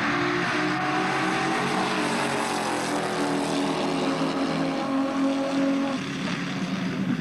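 Drag-race car engine running hard as the car pulls away down the strip, its engine note sliding slowly lower and dropping a little about six seconds in.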